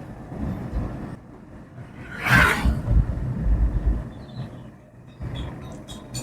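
Road noise inside a moving car: a low rumble, with a brief loud rushing whoosh about two seconds in, like a vehicle passing close by.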